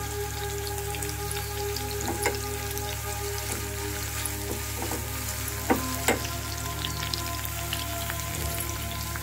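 Sliced onions and curry leaves frying in oil in a nonstick kadai, a steady sizzle, as a silicone spatula stirs them, with a few light knocks of the spatula against the pan about two, five and a half and six seconds in.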